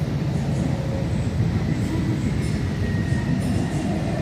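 DART light-rail train running, heard from inside the car: a steady low rumble of wheels on track, with faint high tones above it.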